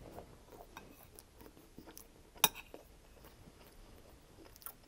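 Close-miked chewing of a mouthful of crispy chicken fried rice: soft, irregular wet mouth clicks. One sharp, louder click comes about two and a half seconds in.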